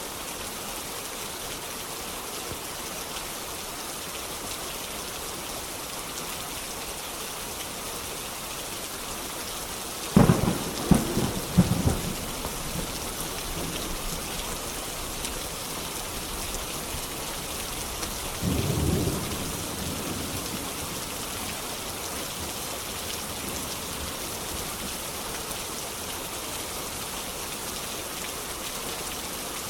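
Steady rain falling, with a sharp clap of thunder about ten seconds in that cracks several times over two seconds and rolls on. A second, lower rumble of thunder comes a little before twenty seconds.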